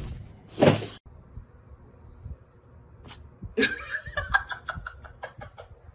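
A person laughing in a run of short bursts from about three and a half seconds in, after a sharp knock and a brief noisy burst near the start.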